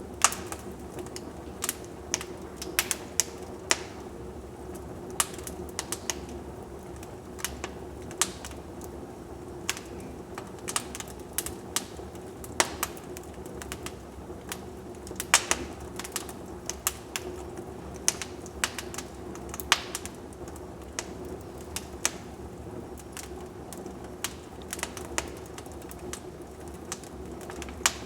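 Wood fire crackling in a fireplace: irregular sharp snaps and pops, some louder than others, over a steady low rush from the burning logs.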